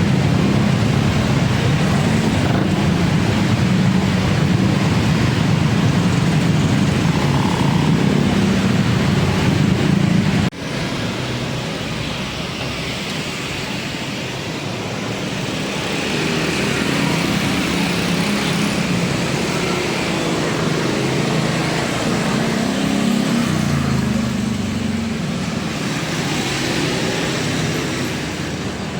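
Steady road traffic noise from vehicles running. About ten seconds in it cuts off abruptly to a slightly quieter traffic noise, which swells again a little later.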